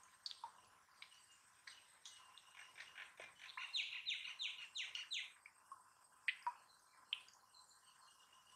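A small bird singing faintly: a run of quick notes, each sliding down in pitch, about three a second, swelling in the middle. A few single sharp chirps come before and after.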